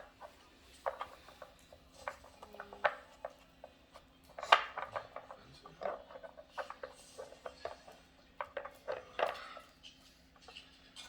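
A dog moving the pieces of a treat puzzle toy in search of hidden treats: a run of irregular clicks and knocks, the loudest about four and a half seconds in.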